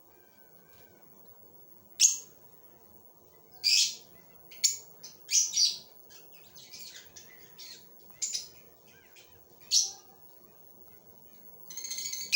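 Parblue euwing opaline lovebird giving sharp, high-pitched chirps, about nine short calls at irregular intervals starting about two seconds in, with a quick run of calls near the end.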